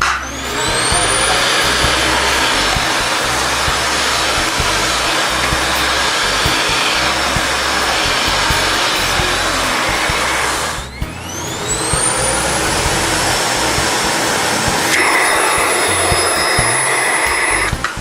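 Vacuum cleaner motor switched on, its whine rising as it spins up, then running steadily. About eleven seconds in it briefly drops and spins up again, and its tone shifts near the end.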